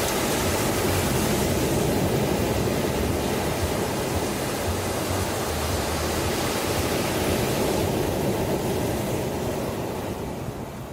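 Ocean surf: waves washing in with a steady rush, easing off near the end.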